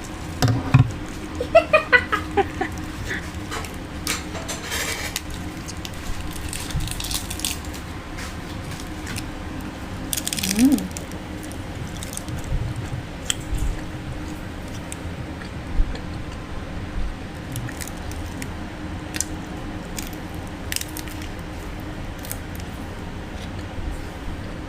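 Close-up chewing and small mouth clicks of someone eating tupig, a chewy grilled glutinous-rice cake, over a steady low hum, with a brief breathy sound about ten seconds in.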